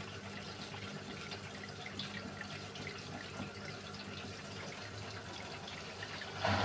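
Beko washing machine on a hand wash cycle: water dripping and trickling inside the drum over a steady low hum, with a louder rush of water near the end.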